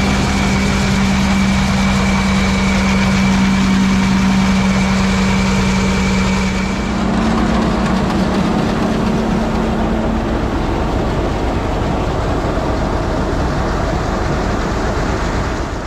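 Tractor engine running steadily, with a thin high whine over it for the first half; about six and a half seconds in the whine stops and the engine note shifts slightly higher.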